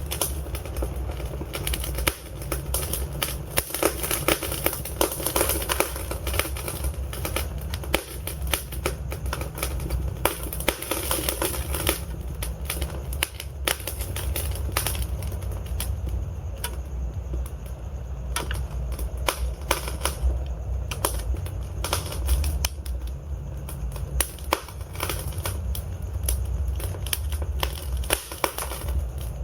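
Burning logs in a fireplace crackling, with frequent irregular sharp pops and snaps over a steady low rumble of the flames.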